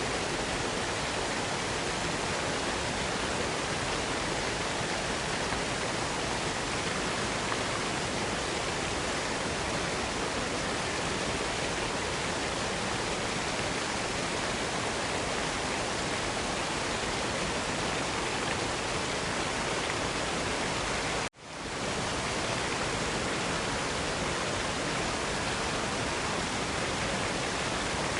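Waterfall rushing with a steady, even roar. Near three quarters of the way through it drops out for an instant and quickly fades back in, as at an edit in the recording.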